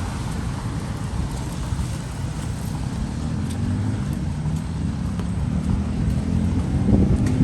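Road traffic passing on a city street: a steady low rumble, with a motor vehicle's engine growing louder from about six seconds in as it draws near.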